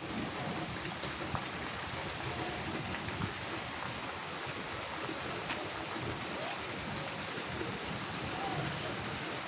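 Steady rain falling, a constant hiss with scattered faint ticks of drops.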